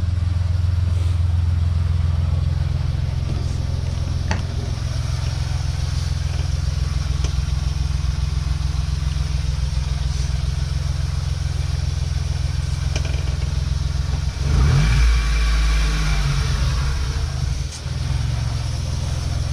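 Brabus Smart car's replacement engine idling steadily, blipped once briefly about fifteen seconds in before settling back to idle.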